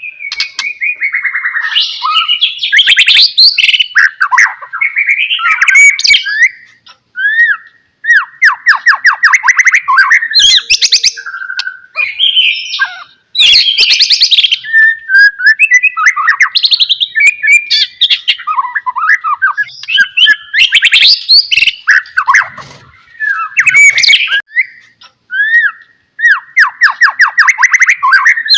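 White-rumped shama (murai batu) in full song: a loud, varied stream of clear whistles, fast rattling trills and harsh chattering notes, broken by a few short pauses.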